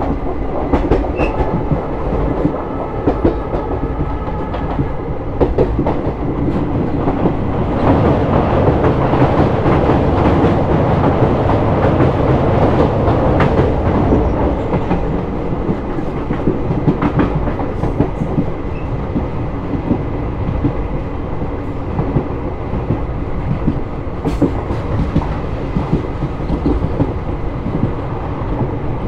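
Moving passenger train heard from aboard: steady rumble of the coach with the clickety-clack of its wheels over rail joints, a little louder for several seconds about a third of the way in.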